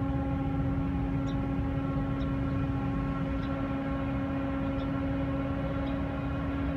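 Turbocharged EMD diesel locomotives howling in the distance: a steady, high turbocharger whine with overtones over a low engine rumble, unchanging in pitch.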